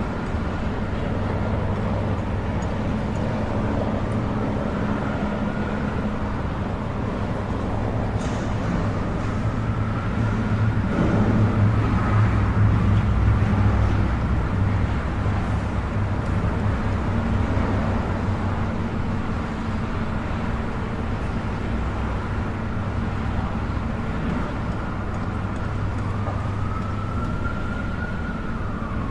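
City street traffic rumbling steadily, swelling as a vehicle passes, with an emergency-vehicle siren wailing in slow rises and falls several times behind it.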